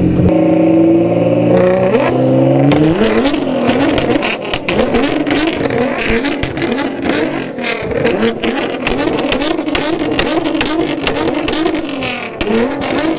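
Nissan GT-R engine revving hard: the revs climb over the first two or three seconds, then rise and fall at high revs. A rapid run of exhaust pops and crackles goes on throughout, the flame-spitting show.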